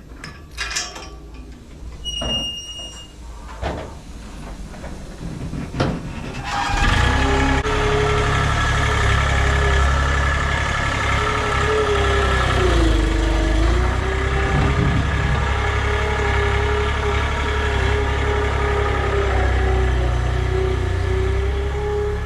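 A few knocks and a short high beep, then an engine starts about six and a half seconds in and runs steadily, its pitch dipping briefly about six seconds later.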